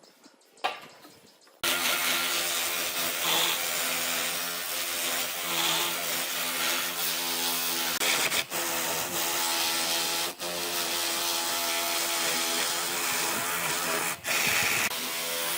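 A power tool working wood: after a quiet start it cuts in abruptly about a second and a half in, then runs steadily with a motor hum under the noise of the cut, dipping briefly a few times.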